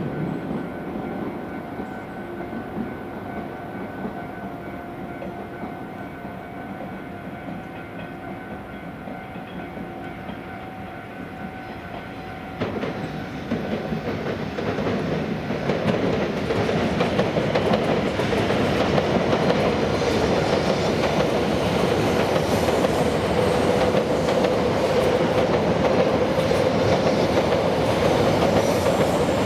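E7 series Shinkansen train pulling out. For the first twelve seconds or so it gives a quieter sound with a few steady whining tones. The running noise then rises sharply and grows into a loud, steady rushing as the train gathers speed.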